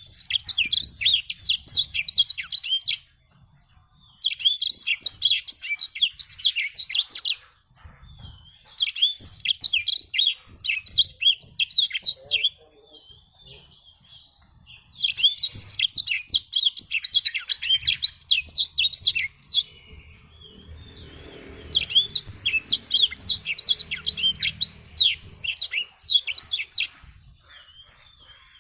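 Black-throated canary (blackthroat) singing in fast, rapid twittering phrases, five in a row of about three to five seconds each with short pauses between.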